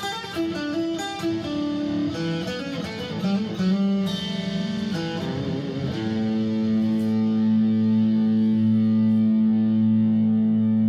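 Three-string electric guitar with an aluminium composite top, played through an amp with overdrive: a run of quick picked notes, then a low note struck about six seconds in and left ringing with long sustain.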